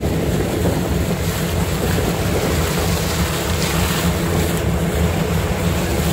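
Fishing boat's engine running steadily under way, a low hum beneath rushing wind and water noise.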